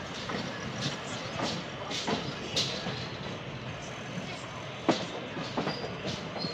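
Passenger train running over the tracks: a steady rumble of wheels on rail, broken by irregular sharp clacks as the wheels cross rail joints and switches. The loudest clack comes about five seconds in.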